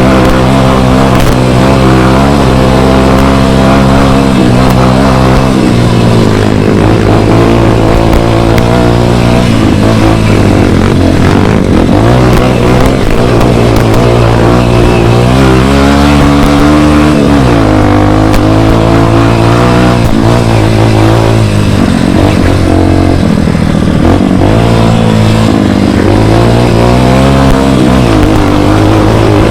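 Dirt bike engine running loud under load, its pitch rising and falling every few seconds as the throttle is opened and closed and the gears change.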